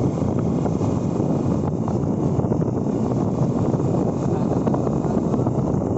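Steady wind rushing over the microphone of a rider on the move: a dense low rumble with no clear engine note.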